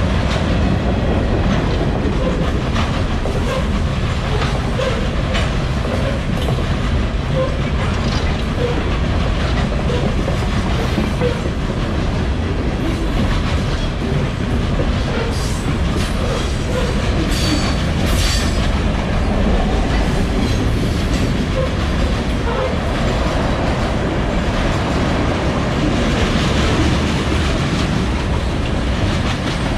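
Freight cars of a mixed train (tank cars and hoppers) rolling past close by: a steady, loud rumble of steel wheels on rail with clickety-clack over the joints. About halfway through come a few brief sharp metallic sounds.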